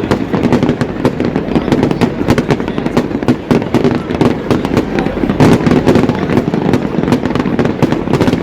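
Aerial fireworks going off in a dense, continuous volley of bangs and crackles, many shells per second with no break.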